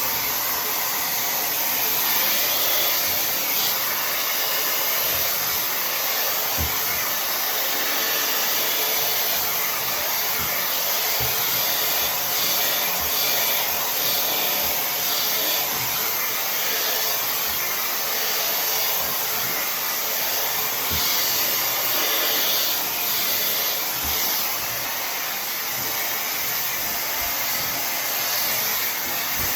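Tymo Air Hype hair dryer blowing steadily, with a few faint knocks scattered through it.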